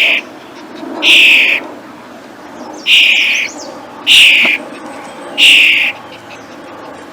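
A bird giving a harsh, hoarse call over and over, each about half a second long, with about a second's pause between them.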